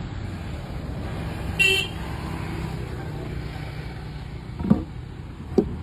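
Steady low outdoor rumble with a short, high beep about one and a half seconds in, and two sharp knocks near the end.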